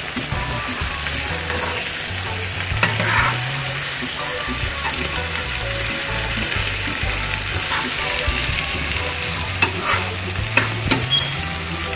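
Ackee sizzling as it fries in oil in a pot, with stirring and a few sharp clicks near the end.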